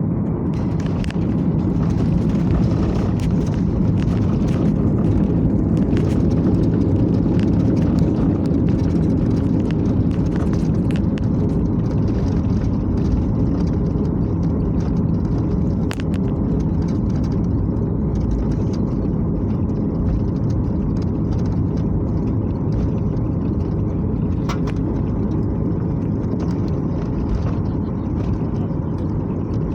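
Boeing 737-800 airliner heard from inside the cabin: a loud, steady low rumble of the CFM56 engines and airflow, with a few short rattles of cabin fittings scattered through it.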